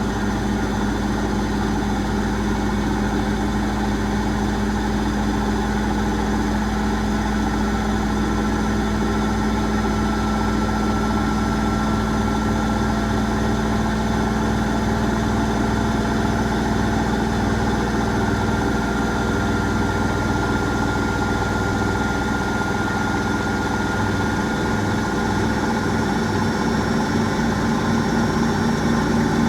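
Asko Quattro W6098X washing machine in its final high-speed spin, limited to 1600 rpm: a steady hum with a thin, faint high whine above it, the drum and motor holding speed.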